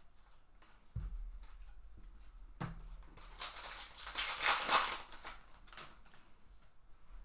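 A foil trading-card pack being handled and torn open, its wrapper crinkling loudly for about two seconds in the middle, after a couple of soft thumps on the table.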